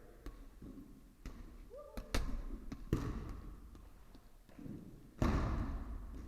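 Dodgeballs smacking and bouncing on a gym floor: several sharp separate impacts, a brief squeak, and a louder burst of noise near the end.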